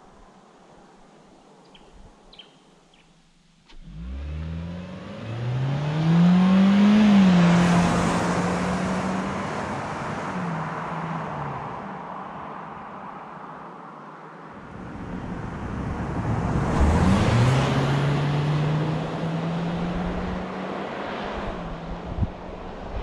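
2020 Kia Seltos S's naturally aspirated 2.0-litre four-cylinder petrol engine under hard acceleration through its CVT, twice. Each time the revs climb quickly and then hold at a near-constant pitch while the car keeps speeding up. The first run starts about four seconds in and fades out; the second starts past the middle.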